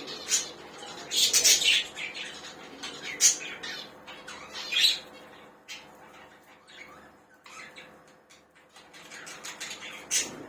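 Budgerigars chattering, with several short, sharp squawks cutting through; the loudest come in the first five seconds and once more near the end.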